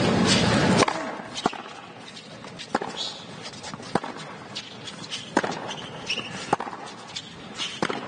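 A loud noisy burst that cuts off suddenly under a second in, then six sharp, single knocks about a second or so apart, the crisp impacts of a tennis ball being struck or bounced on court.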